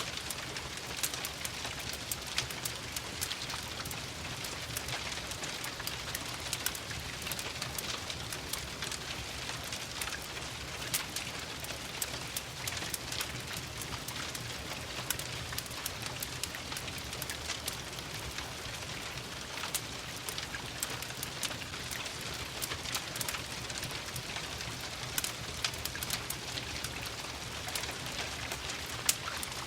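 Steady rain hiss mixed with the crackle of a wood fire: many small, sharp clicks and pops scattered over an even rain hiss.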